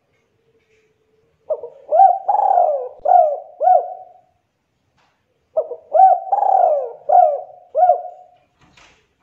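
Spotted dove cooing: two song phrases a few seconds apart, each a quick run of about five coo notes.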